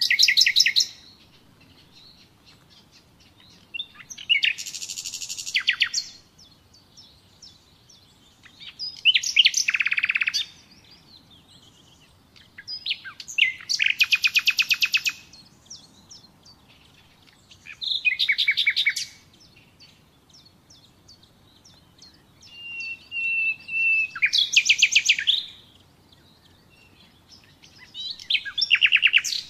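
Nightingale singing: about seven separate phrases of fast repeated notes, one every four to five seconds with short pauses between, one of them opening with a long steady whistle.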